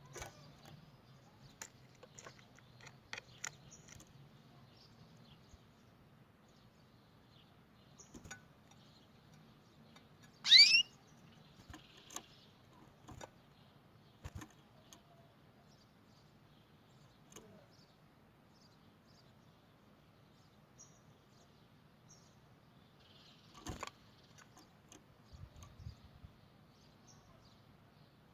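Canary giving scattered short chirps and call notes rather than a full song, with one loud, rising whistled call about ten seconds in. A faint low hum runs underneath.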